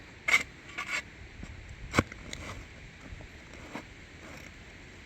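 Shovel digging into soil: a few short scraping strokes, then a sharp clink about two seconds in and some smaller knocks.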